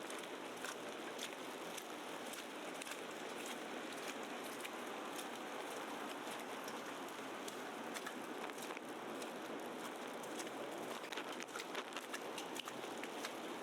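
Heavy wet snow falling in a snowstorm: a steady hiss with many light, irregular ticks of flakes pattering.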